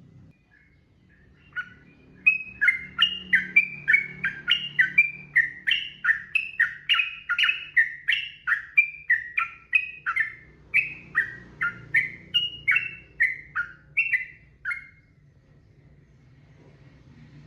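Yellow-vented bulbul (trucukan) singing a long unbroken run of quick whistled notes, about two to three a second, each sweeping up or down. The song starts a second or two in and stops about fifteen seconds in, over a faint low hum.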